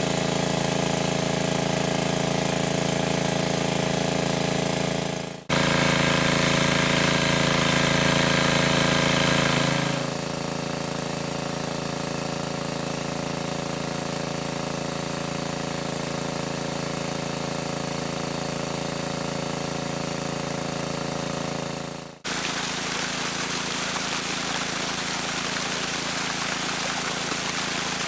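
A small engine or motor running steadily with an even, unchanging hum, broken by abrupt cuts about five seconds and twenty-two seconds in.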